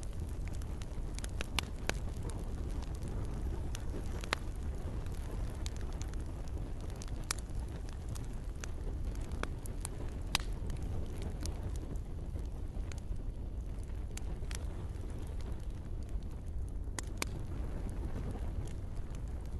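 Campfire crackling: irregular sharp pops and snaps over a steady low rumble of burning, with a soft hiss that fits gentle rain.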